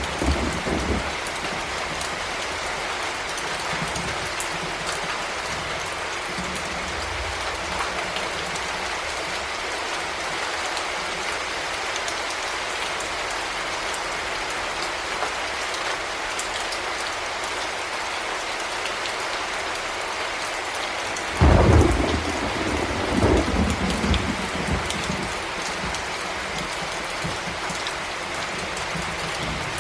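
Heavy rain falling steadily, with a loud thunderclap about two-thirds of the way through that rumbles on for a few seconds, and the tail of an earlier rumble right at the start.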